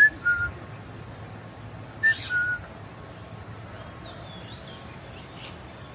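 A bird whistling a two-note call, a short higher note dropping to a held lower one, given twice about two seconds apart, with fainter high twittering from another bird later.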